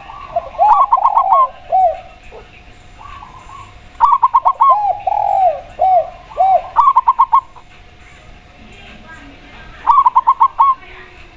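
Zebra dove and spotted dove cooing: four bursts of quick, short, clipped notes, with lower, drawn-out arched coos between the first two bursts.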